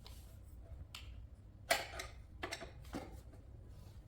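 A few light clicks and knocks of plastic toy parts being handled and fitted together, four in all, the loudest a little under two seconds in.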